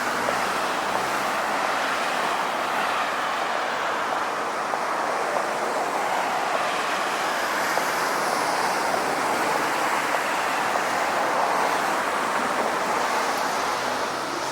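Steady rushing outdoor noise, an even hiss with no distinct events.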